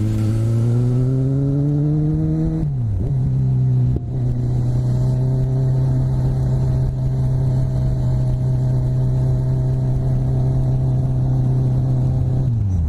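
Kawasaki Z1000's inline-four engine accelerating, its pitch rising, then dropping sharply about three seconds in as it shifts up. It then holds a steady drone at cruising speed, and the revs drop again right at the end.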